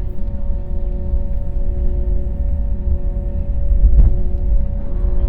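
Airliner cabin noise while taxiing after landing: a steady low rumble of the engines and rolling gear with a constant engine hum in it, and a single knock about four seconds in.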